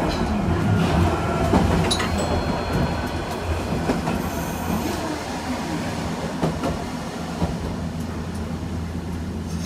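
Keifuku Randen electric railcar running along the track, heard from inside the front of the car: a steady low hum of motors and wheels with occasional clicks over rail joints. A thin, high wheel squeal rises about two seconds in and lasts a few seconds.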